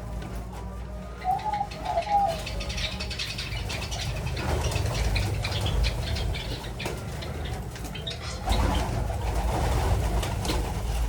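Doves cooing, with two rounded coos about a second and two seconds in, amid faint high chirping from small birds.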